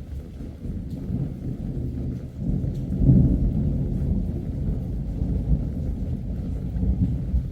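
Long rolling thunder rumble that builds, is loudest about three seconds in, and keeps rolling on. Rain falls lightly underneath.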